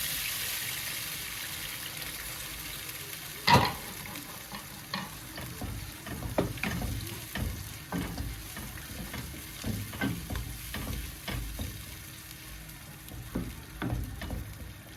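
Food sizzling in a frying pan while a utensil stirs and knocks against the pan, with one sharp knock about three and a half seconds in.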